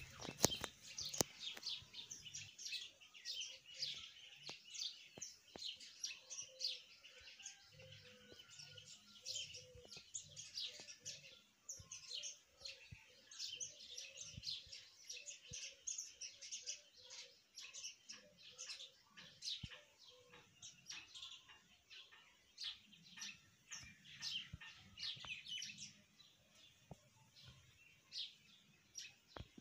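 Birds chirping continuously: rapid, high, short chirps, several a second, with a fainter, lower repeated call from about five to twenty seconds in.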